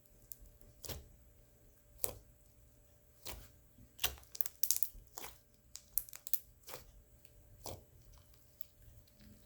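Slime being squeezed and stretched by hand, giving irregular sticky clicks and crackles that bunch together in the middle.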